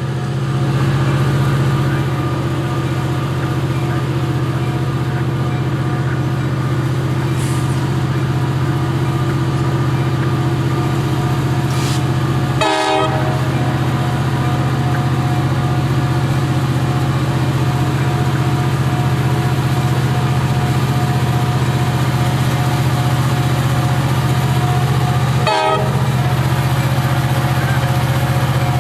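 Freight train diesel locomotives running past with a steady, continuous engine drone. The sound breaks off briefly twice, about halfway through and near the end.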